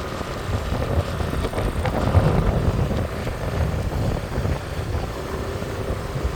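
Wind buffeting the microphone on a moving motorbike, over the steady hum of engines and city traffic.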